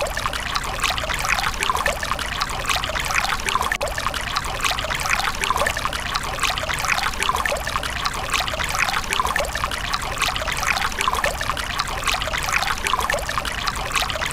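Water from a mini water pump trickling and splashing steadily, a continuous stream of small drips and splashes.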